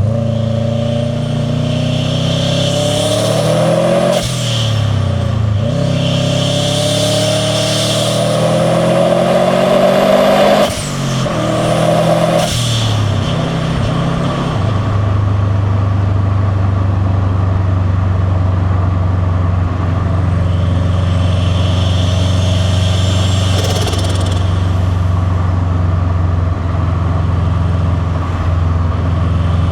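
Turbocharged Subaru WRX STi boxer four-cylinder pulling hard through the gears, its note rising and breaking at two shifts, with the Turbosmart blow-off valve hissing as the throttle closes. From about fifteen seconds in it settles into a steady, low boxer rumble.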